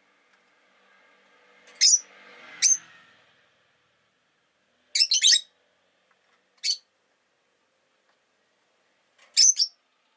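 Rosy-faced lovebird giving short, sharp, high-pitched chirps: two single calls, then a quick burst of three, another single, and a pair near the end.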